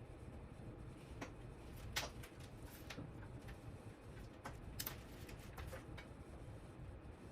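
Faint, scattered clicks and light taps of small parts and tools being handled, about half a dozen spread irregularly, the sharpest about two seconds in, over a low steady hum.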